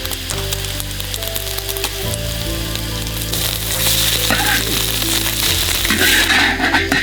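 Food sizzling and crackling as it fries, over background music of held low notes that change every couple of seconds.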